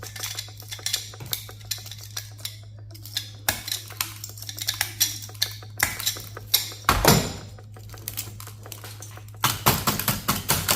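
Hand tools breaking and prying small parts off a server circuit board: irregular clicks, taps and metallic clatter, with a louder crunch about seven seconds in and a quick run of clicks near the end. A steady low hum runs underneath.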